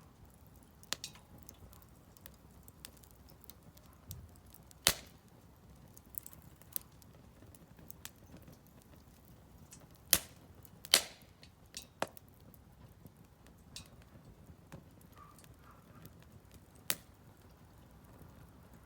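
Firewood burning in a Solo Stove Campfire stove, crackling with sharp, irregular pops and snaps a second or a few seconds apart over a faint steady hiss; the loudest pops come about five and eleven seconds in.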